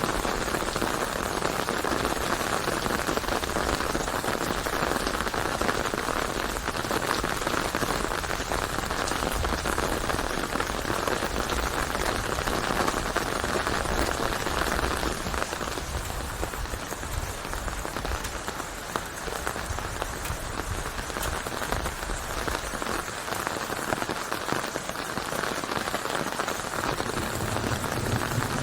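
Steady, heavy rain pattering on a surface, a dense even hiss of drops with no pauses.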